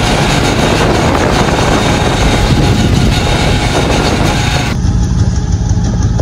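Go-kart driving at speed: loud, steady engine and road noise, strongest in the low end. The higher hiss drops away about five seconds in.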